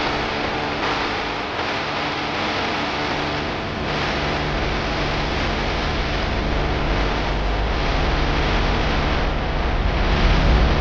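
Steady rushing wind noise on the microphone of a camera carried while running, growing louder near the end.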